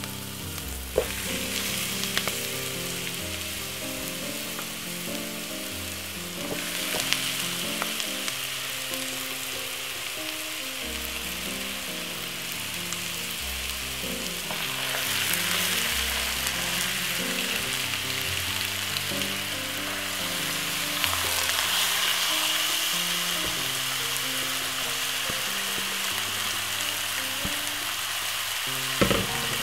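Chopped onion, garlic and ginger sizzling in hot oil in a pot as pieces of marinated chicken are added, the sizzle growing louder about halfway through. A few light clicks, with soft background music underneath.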